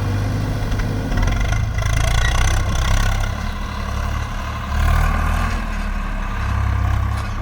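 Heavy diesel engine running under load, its sound swelling and easing several times.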